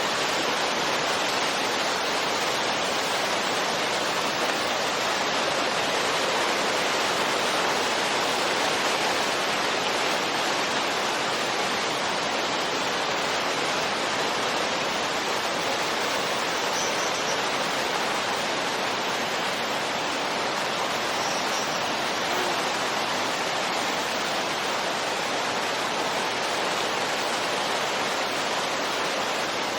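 Steady wind noise, an even, constant hiss with no gusts or swells, used as relaxing white noise.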